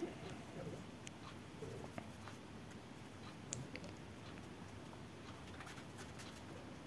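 Faint scratching and scattered light ticks of a cutting-in paint brush worked over freshly filled tile-adhesive joints, scraping stuck adhesive off the frame.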